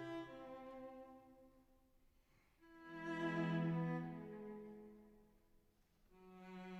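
Slow, calm background music on bowed strings: long held notes that swell and fade, dropping almost to silence about two seconds in and again near six seconds before the next phrase begins.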